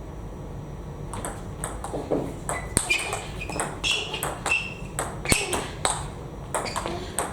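Table tennis ball clicking in a rally: quick paddle hits and table bounces, about three a second, starting about a second in.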